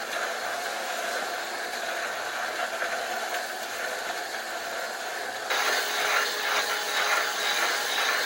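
Metal lathe running with a steady machine whir. About five and a half seconds in, the sound jumps abruptly to a louder, rougher noise with a steady tone in it.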